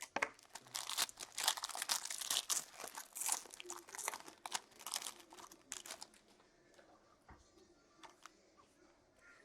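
Plastic trading-card wrapper being torn open and crinkled by hand, a dense crackling that dies down after about six seconds into a few faint rustles.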